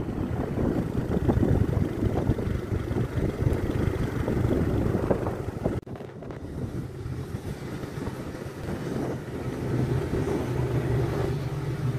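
Wind buffeting the microphone over a vehicle running along a road. After a sudden break about six seconds in, a steady engine hum comes through more plainly near the end.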